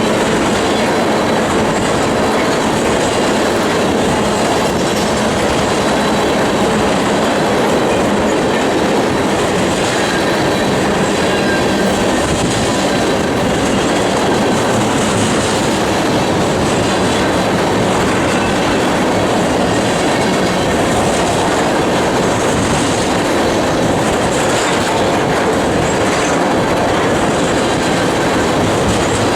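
Loaded crude oil tank cars of a freight train rolling steadily past, wheels clacking over the rail joints, with a faint high wheel squeal.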